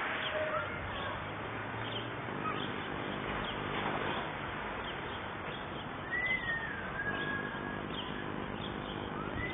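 Birds chirping and calling over a steady background hiss, with one longer wavering whistled call a little past the middle.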